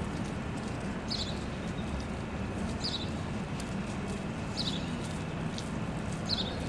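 A bird chirping: a short, high call repeated about every second and a half, five times, over steady outdoor background noise.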